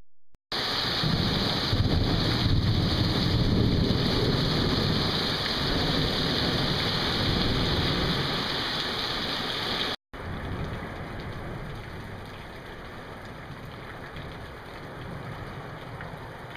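Heavy rain pouring down in a steady hiss, with a low rumble underneath. About ten seconds in it cuts off abruptly and resumes as a quieter, lighter rain.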